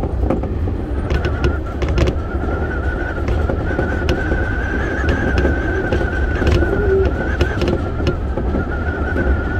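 Keio 1000 series electric multiple unit running at speed, heard from inside the front cab: a steady low rumble with a steady, slightly wavering high whine over it and scattered sharp clicks.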